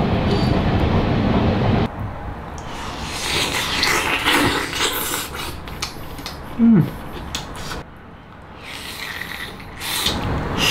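Close-up eating sounds of a man chewing a soft siu mai dumpling, with a short low falling hum from him about two-thirds of the way in.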